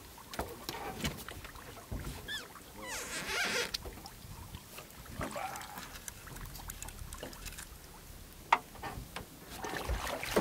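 A small rowboat being rowed: oars dipping and splashing in the water, with scattered knocks and clicks against the boat, and one sharp knock about eight and a half seconds in.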